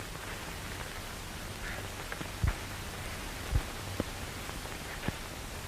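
Steady hiss of an old film soundtrack, with two soft low thumps and a couple of light clicks partway through.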